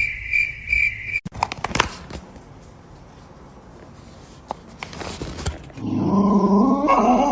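A dog giving a drawn-out, wavering cry that starts about six seconds in. Before it, a high pulsing tone cuts off about a second in, followed by a few sharp knocks.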